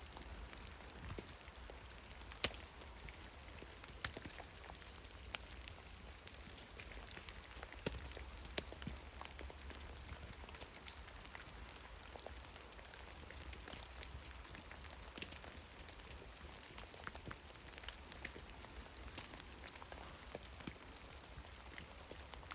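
Meltwater drops falling from snow-laden trees in a forest, landing as irregular soft ticks and pats on snow and branches, a few louder ones among them, over a faint steady hiss and low rumble.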